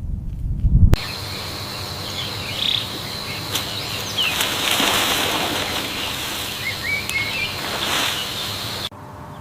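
Outdoor ambience with a few short bird chirps over a steady high-pitched drone and a noisy background. In the first second there is a loud low rumble that cuts off abruptly, and the ambience itself cuts off shortly before the end.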